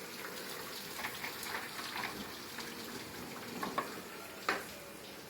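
Rain falling steadily, with scattered drops ticking on a surface and two sharper drip knocks near the end.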